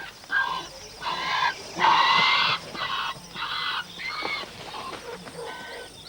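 Ground hornbill chick calling from inside its tree-hollow nest: a run of about eight short, raspy calls, loudest about two seconds in and weaker towards the end. The cries are the sign that the chick is strong and healthy.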